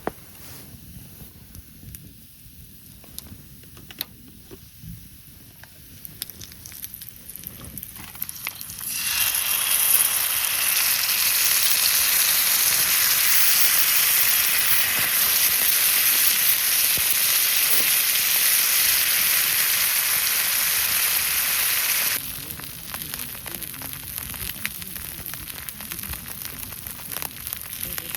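Campfire crackling faintly with scattered pops. About nine seconds in, a loud, steady sizzling hiss starts abruptly, runs for about thirteen seconds and cuts off suddenly, leaving the faint crackle again.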